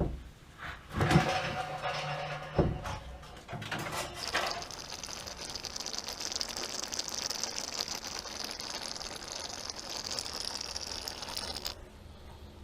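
A few knocks, then water rushing steadily out of the water heater tank as it is drained. The rush cuts off suddenly near the end.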